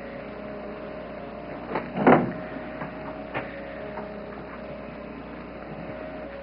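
A door squeaks about two seconds in, with a few light clicks and knocks, over a steady faint tone.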